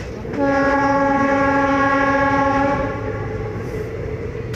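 Indian Railways train horn sounding one long, steady blast of about two and a half seconds, over the continuous rumble of the train running at speed.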